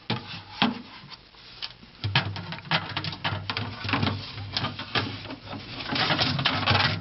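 Plastic divider tray being worked out from under a mini fridge's freezer section: a run of clicks, knocks and rattles of plastic against the fridge, over a low hum that starts about two seconds in.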